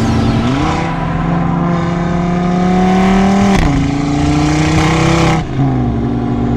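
Audi RS3's turbocharged five-cylinder engine, with catless downpipe and tune, accelerating hard. The pitch climbs, drops sharply at an upshift about three and a half seconds in, climbs again, then falls as the throttle is lifted near the end.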